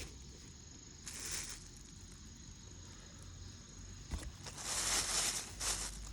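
Rustling, once briefly about a second in and again, longer and louder, near the end, over a faint steady high-pitched insect drone.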